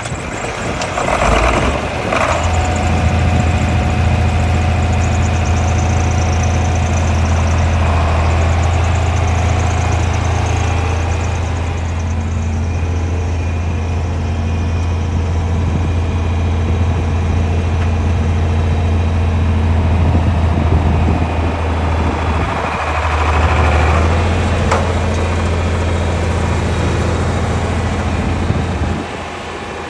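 John Deere 5020 tractor's six-cylinder diesel engine running steadily at a low idle, with its speed or load swelling briefly a couple of times and dropping away near the end.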